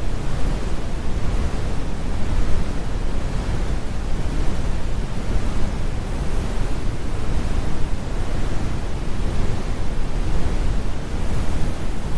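Computer-generated brown noise: a steady, deep rumbling hiss with its weight in the bass and the highs rolled off, like a distant airplane cabin.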